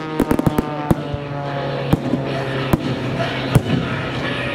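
Fireworks going off: a quick run of sharp bangs and crackles in the first second, then single reports about once a second. Music with sustained tones plays underneath.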